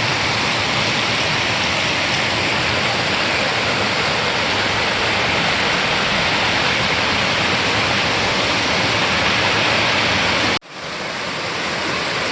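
Waterfall rushing steadily. It cuts out abruptly for an instant near the end and resumes a little softer.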